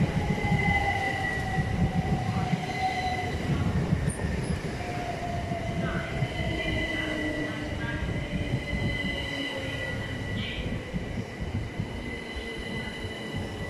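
Electric multiple-unit passenger train running past along the platform with a low rumble of wheels on rail. Its motor whine glides down in pitch several times as it slows, over a thin steady high squeal.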